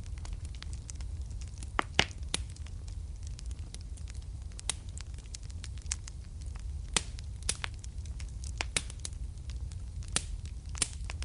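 Wood fire in a fireplace crackling, with irregular sharp pops and snaps, a few louder ones, over a low steady rumble of the burning.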